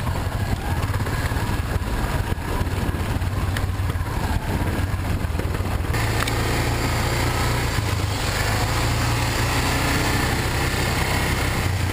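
Motorcycle engine running steadily, with an abrupt change in the sound about halfway through.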